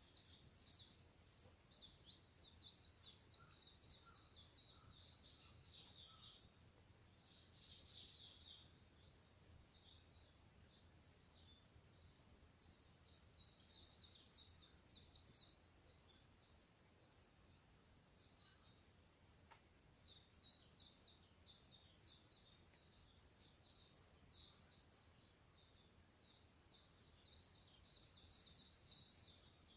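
Faint, continuous chorus of small birds chirping in rapid, high-pitched notes, with a single faint click about two-thirds of the way through.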